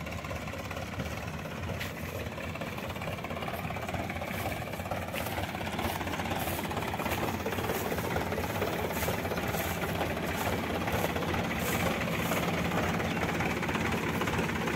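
A heavy vehicle's engine running steadily, gradually getting a little louder.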